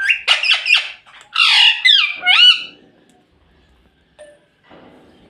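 Pet ringneck parrot squawking and chattering in a quick run of loud, sliding calls that stops a little under three seconds in.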